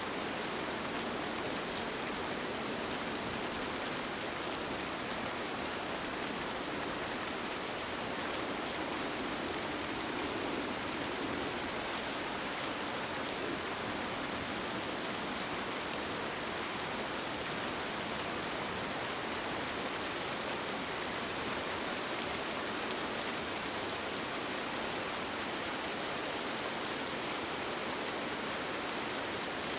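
Steady rain falling on a tent, an even hiss with faint scattered drop ticks.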